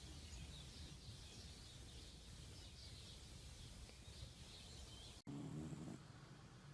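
Faint bird chirps repeating every half second or so over a low steady hum. The sound cuts off abruptly about five seconds in and gives way to a brief low sound.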